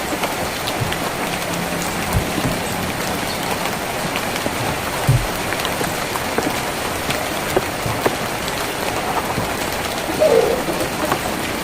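Steady rain falling on a tin roof, with scattered sharper drops and a few low knocks. A brief pitched sound stands out near the end.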